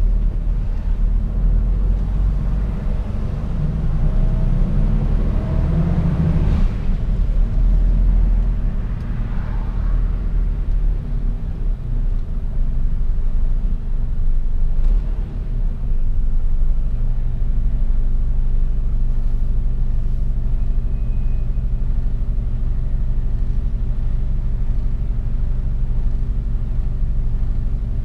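Mercedes-Benz Actros truck's diesel engine and road noise as the truck drives. The engine note shifts in the first half, with a single click partway through, then settles into a steady low drone for the last third.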